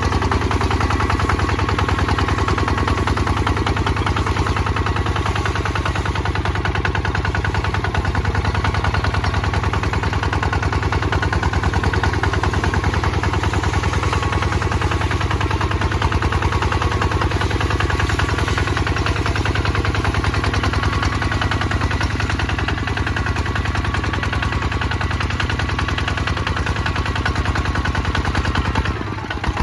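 Kubota ZT155 DI single-cylinder diesel engine running steadily under plowing load, its exhaust beating in a rapid, even rhythm. The level dips briefly near the end.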